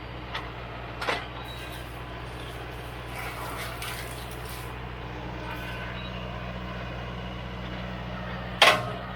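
Mahindra 4540 tractor's diesel engine running steadily, with a few sharp knocks of wood or metal, the loudest near the end.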